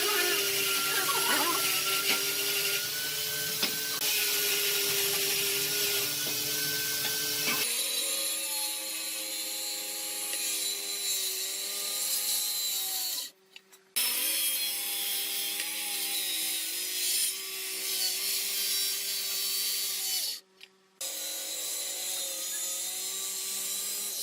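Electric power tool working wood: a steady motor whine over a hiss of cutting, cutting out briefly twice, about 13 and 20 seconds in.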